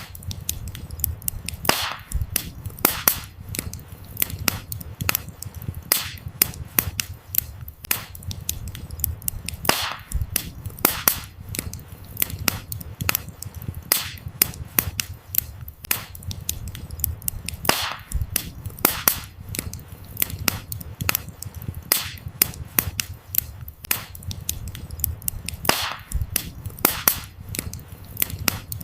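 Campfire crackling: a steady low rumble of burning wood with frequent sharp pops and snaps, and a few louder pops standing out about every eight seconds.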